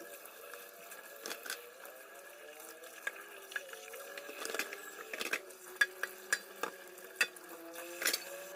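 Kitchen sounds: a dozen or so sharp clinks of dishes and cutlery, coming more often after the first few seconds, over a faint wavering tone.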